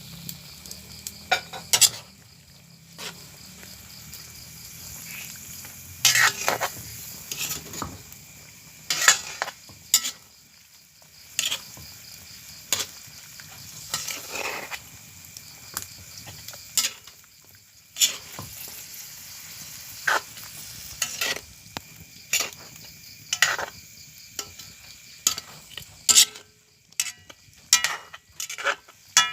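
Food sizzling in a frying pan while a metal utensil stirs it, scraping and clinking against the pan in short, irregular strokes about once a second over a steady frying hiss.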